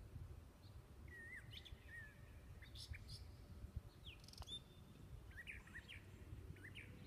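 Faint birdsong: short, curving chirps from several birds, scattered throughout, over a low rumble. A single faint click comes about four and a half seconds in.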